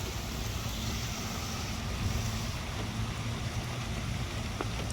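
Wind buffeting the microphone outdoors: a steady, fluctuating low rumble with a faint hiss above it.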